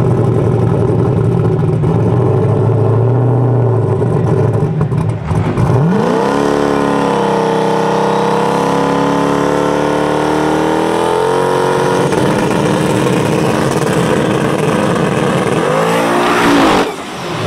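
Fox-body Ford Mustang drag car's V8 engine rumbling at the starting line. About six seconds in it revs up and holds high revs steadily for several seconds, then runs rougher. Near the end it revs up hard as the car launches.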